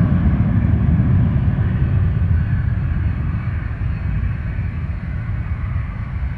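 Boeing jet airliner's engines at takeoff power during the takeoff roll: a loud, steady jet rumble that eases slightly as the aircraft moves off down the runway.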